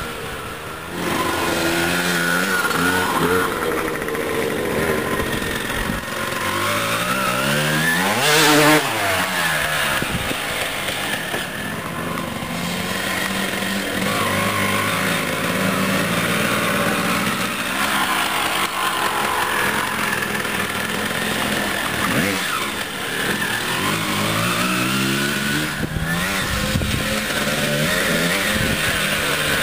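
Suzuki dirt bike engine riding around, its pitch rising and falling again and again as it accelerates and eases off, and loudest as it passes close by about eight and a half seconds in.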